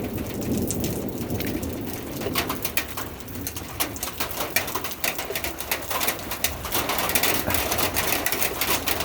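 Rain falling, with many sharp drip clicks on a nearby surface from about two seconds in. A bird calls low underneath.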